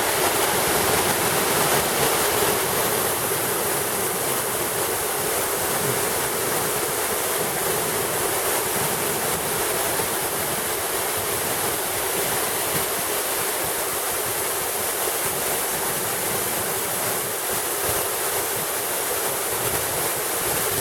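Waterfalls cascading down a rock face, a steady rushing roar of falling water.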